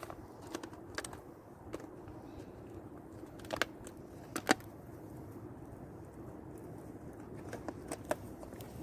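Campfire crackling: scattered sharp pops over a steady low hiss, the two loudest about three and a half and four and a half seconds in.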